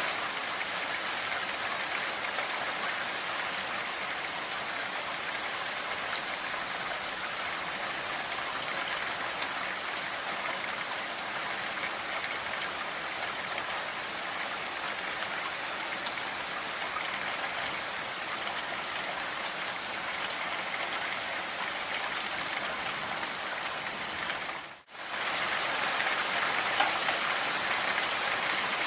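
Steady rainfall, an even dense hiss of drops. It cuts out for an instant about 25 seconds in and comes back slightly louder.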